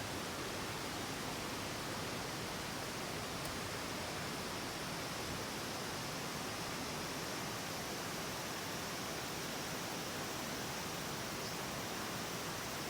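Steady, even hiss of background noise that holds at one level throughout, with no distinct events.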